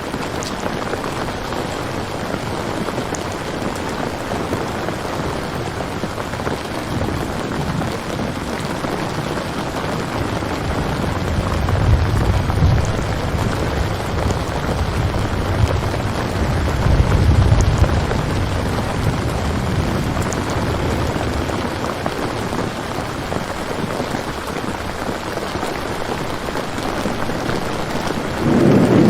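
Steady rain falling, with low rolls of thunder swelling twice in the middle and once more at the end.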